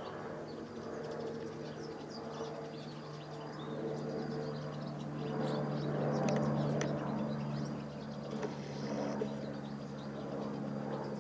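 Airbus H125 (AS350 B2) helicopter running, its rotor and turbine making a steady drone that grows louder toward the middle and eases again. Birds chirp throughout.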